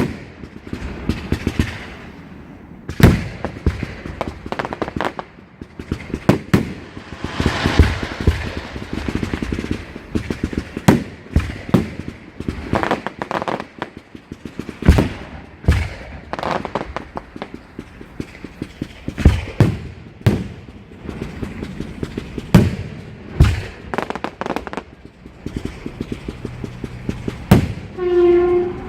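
Fireworks going off: a long run of sharp, irregularly spaced bangs, some followed by crackling. Near the end a horn begins to sound.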